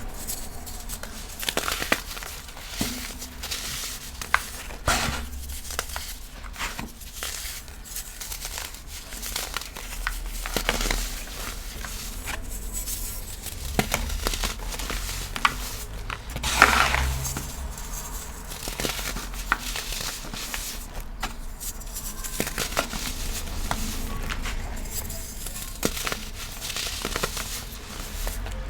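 Gym chalk being crushed and crumbled into powder: an irregular run of dry crunches and crackles, with the loudest crunch about two-thirds of the way through.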